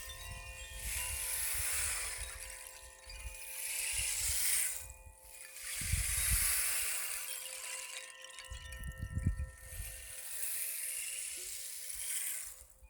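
Chimes ringing with steady, overlapping tones, while wind gusts in waves and buffets the microphone with low rumbles.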